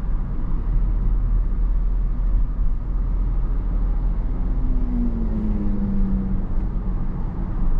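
Steady low rumble of a car's cabin, engine and road noise, with a faint tone sliding down in pitch about five to six seconds in.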